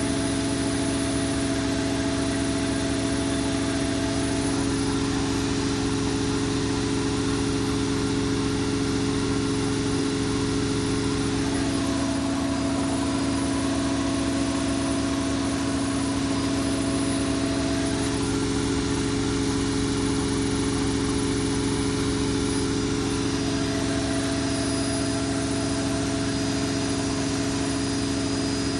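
Zanussi Lindo 100 washing machine spinning at a steady high speed, likely the cycle's final spin (up to 1400 rpm), with a steady motor hum and whine. A higher tone in the hum drops out and returns twice.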